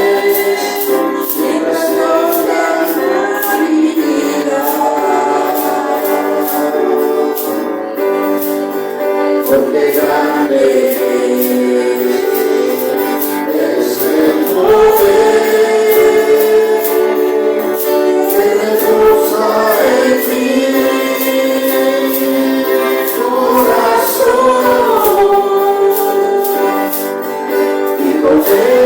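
A congregation singing a Spanish-language praise song (alabanza) with a woman's voice leading, over a steady percussion beat.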